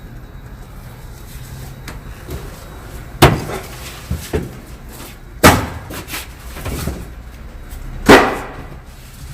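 Three loud slams or thumps, roughly two to three seconds apart, with a smaller knock between the first two.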